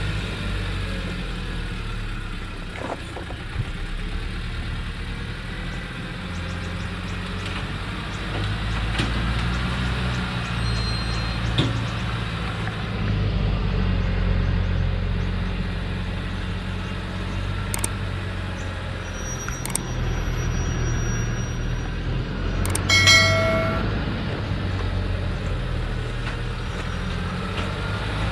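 Diesel engine of a heavily loaded Thaco truck running steadily as it goes down a steep hill, with a brief high-pitched sound of several tones about three-quarters of the way through.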